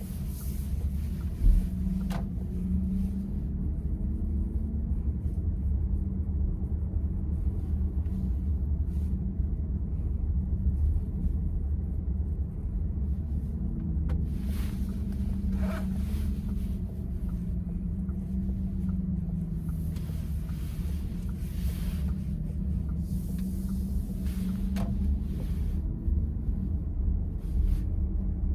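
Steady low road and tyre rumble inside a moving VW ID.4, with a faint wavering hum. Brief rushing swells come and go several times.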